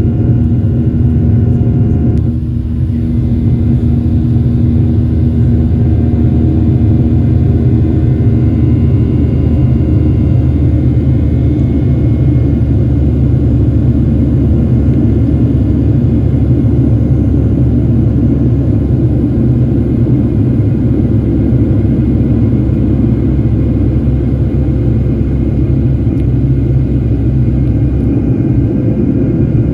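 Boeing 737-700's CFM56 jet engines heard from inside the cabin: a loud, steady rumble with faint steady engine tones above it.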